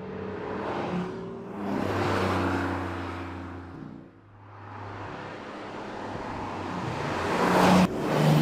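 2025 Porsche 911 Targa 4 GTS's 3.6-litre flat-six exhaust as the car accelerates and drives past, swelling twice. The second, louder swell cuts off abruptly near the end.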